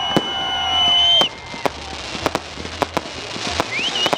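Fireworks going off: high, steady whistles that cut off suddenly about a second in, followed by scattered sharp cracks and pops, with a new whistle rising near the end.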